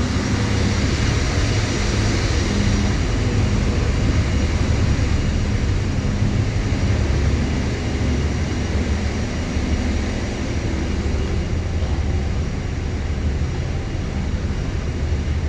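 Ship's machinery running: a loud steady drone with a low hum and a hiss over it, unchanging throughout.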